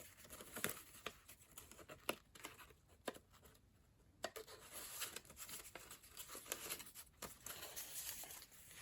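Pages of a thick handmade junk journal being turned and handled: soft paper rustling with scattered light clicks and taps.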